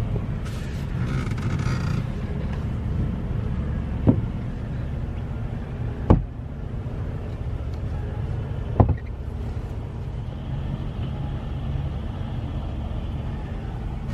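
Truck engine running with a steady low rumble, broken three times by a short sharp knock, about two to three seconds apart.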